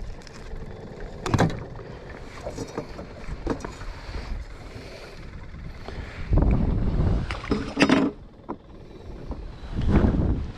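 Handling noise aboard a small fishing boat: scattered clicks and knocks, with two stretches of low rumble about six and ten seconds in.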